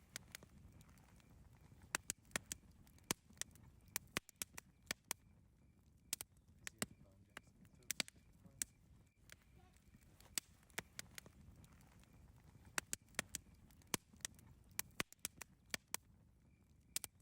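Campfire crackling: irregular sharp pops and snaps, sometimes several in quick succession, over a low, soft rumble of the burning fire.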